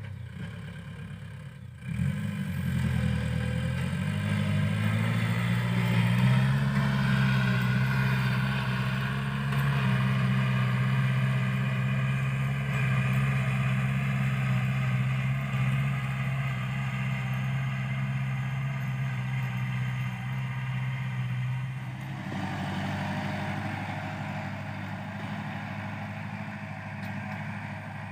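Kubota L5018SP tractor's diesel engine running. About two seconds in it gets louder and its pitch climbs over a few seconds, then it holds a steady pitch. Near the end the sound drops and turns rougher.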